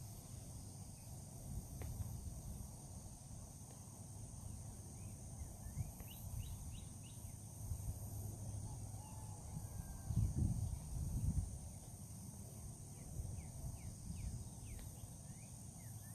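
Outdoor morning ambience: a steady high insect drone with birds chirping in short, repeated calls. A louder low rumble swells briefly about two-thirds of the way through.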